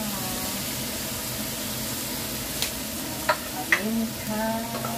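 Onions, tomatoes and green bell peppers sizzling in oil and soy sauce in a wok, stirred with a wooden spatula, with a few sharp clicks between about two and a half and four seconds in.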